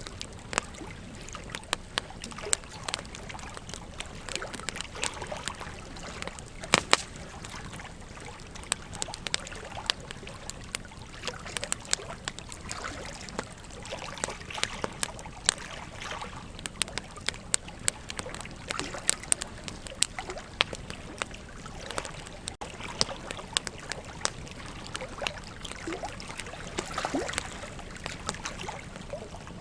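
Wood campfire crackling and popping in quick, irregular snaps over the steady rush of a flowing river.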